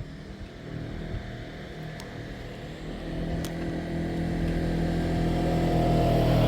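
A vehicle's engine running and growing steadily louder as it approaches, loudest near the end.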